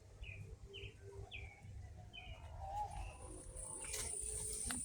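A bird calling with a string of short, falling chirps, about two a second. About three seconds in, a steady high-pitched insect buzz starts and grows louder, over a low rumble of wind or handling noise.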